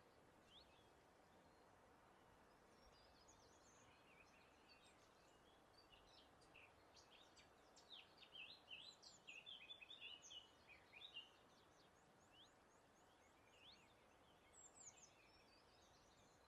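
Songbirds singing and chirping faintly over a soft steady background hiss, with a busier run of quick high chirps in the middle and a few more near the end.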